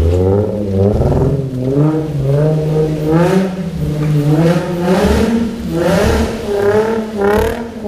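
Infiniti G35's V6 engine, through an aftermarket exhaust, revving up and down over and over, about once or twice a second, under hard throttle.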